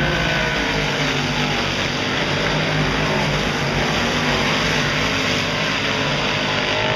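A pack of big-block dirt modified race cars running hard around the track. The engine notes rise and fall as cars go by.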